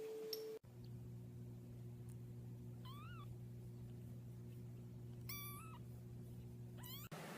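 A domestic cat meowing three times: a short call about three seconds in, a longer one a little past five seconds, and a rising one near the end. A steady low hum runs underneath.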